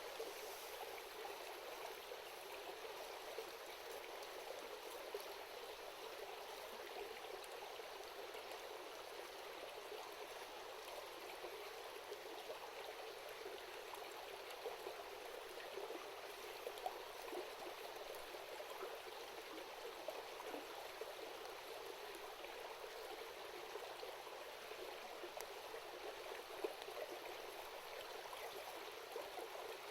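Steady rushing of a river stream, with a few faint, sharp clicks here and there.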